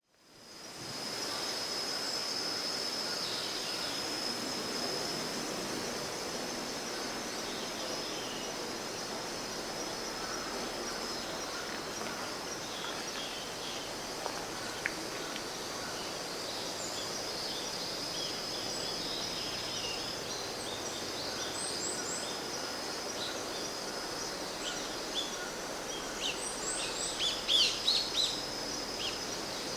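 Woodland ambience that fades in: a steady high-pitched insect trill under a faint wash of noise, with scattered bird chirps that gather into a brief, louder run of calls near the end.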